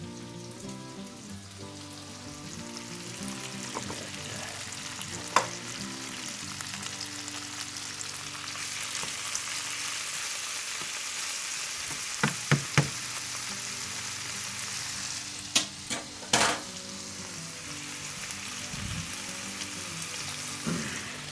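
Chicken frying in a pan of melted butter and olive oil: a steady sizzle that grows louder about eight seconds in, with several sharp knocks as the pan is worked, three close together about halfway through.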